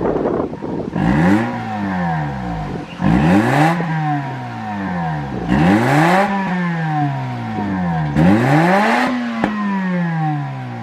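Mazda RX-8's twin-rotor rotary engine revved four times through a 5ZIGEN Pro Racer ZZ aftermarket muffler. Each time the pitch climbs quickly, then falls back slowly toward idle.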